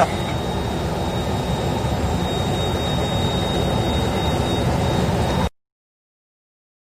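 Steady jet-engine rumble with a thin, constant high whine. The audio cuts out to complete silence about five and a half seconds in.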